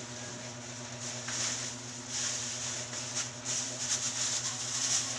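Plastic bags and wrappers rustling and crinkling in irregular bursts as trash is sorted by hand, over a steady low hum.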